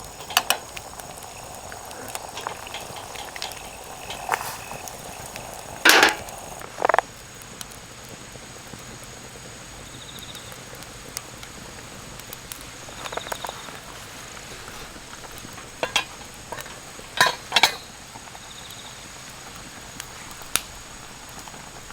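Wood fire burning in a compact fire pit: a steady soft crackle with scattered sharp pops, and a few louder knocks about six and seven seconds in and again around seventeen seconds.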